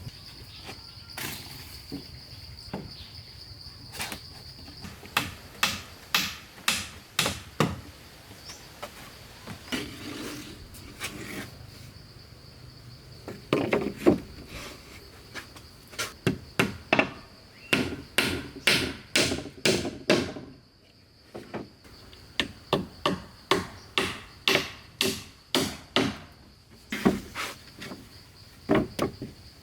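Runs of sharp blows on wood, about two a second, from a hand tool working timber. Under them a steady high insect drone runs, dropping out briefly about two-thirds of the way through.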